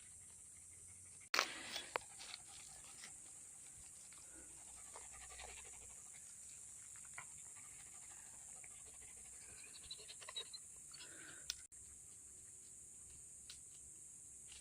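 Faint panting from a dog, with a sharp knock about a second in and scattered small clicks, over a steady high hiss.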